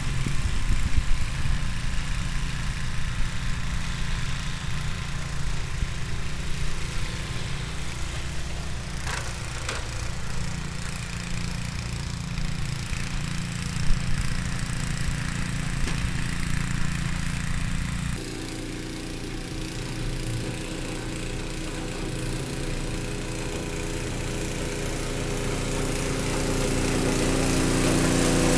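Ariens two-stage snowblower's 5 HP Tecumseh single-cylinder four-stroke engine running steadily. Its note changes abruptly about two-thirds of the way through, and it grows louder near the end. There is one brief knock about halfway through.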